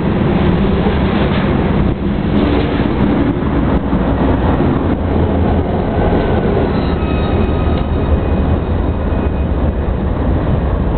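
Freight train rumbling past on the rails: the last covered hopper cars of a BNSF grain train, followed by a diesel locomotive at the rear of the train. The sound stays loud and steady, with faint high steady tones coming in about seven seconds in.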